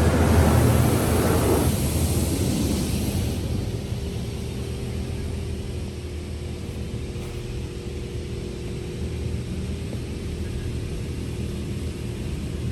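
High-pressure rinse jets of a PDQ LaserWash 360 Plus touchless car wash spraying a pickup truck, heard from inside the cab. A loud hiss of water for the first couple of seconds fades as the spray moves off, leaving the wash machinery's steady hum with a held tone.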